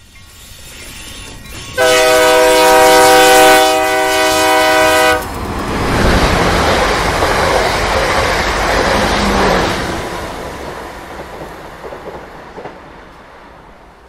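A train approaching and sounding its horn in one long blast from about two seconds in to about five seconds in, then passing loudly and fading away.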